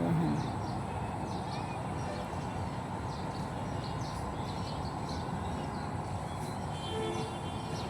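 Small birds chirping in short, repeated calls over a steady background of outdoor noise, with a brief pitched sound about seven seconds in.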